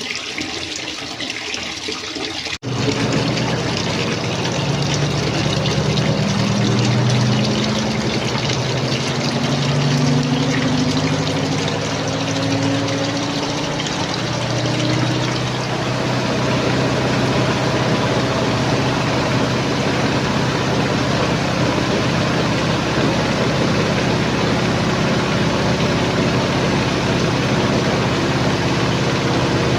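Water running into a twin-tub washing machine. After an abrupt cut, the machine's motor runs with a steady hum and churning water; its pitch wavers for the first dozen seconds, then settles.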